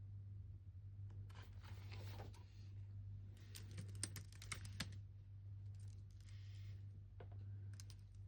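Typing on a computer keyboard in short bursts of quick key clicks separated by pauses, over a steady low hum.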